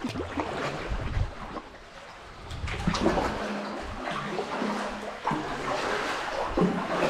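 Kayak paddle splashing and dripping through shallow creek water, uneven strokes with a few low knocks in the first second or so.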